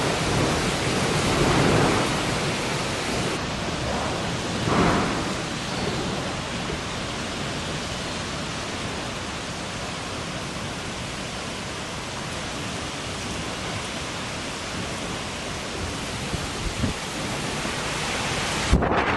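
Strong wind blowing: a steady rushing noise with louder gusts in the first few seconds, which cuts off abruptly near the end.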